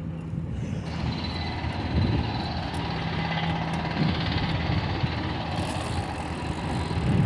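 Wind buffeting the microphone in gusts during a bike ride, over the steady low hum of an idling vehicle engine.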